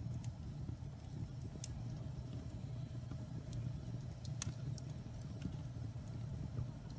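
Wood fire burning in a fireplace: a steady low rumble of flames with scattered sharp crackles and pops from the burning logs. The loudest pop comes about four and a half seconds in.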